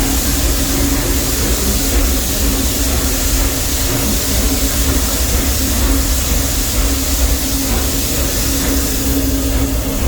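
Narrow-gauge steam train running steadily, heard from aboard: a constant low rumble and hiss of the cars rolling on the track, with a steady hum.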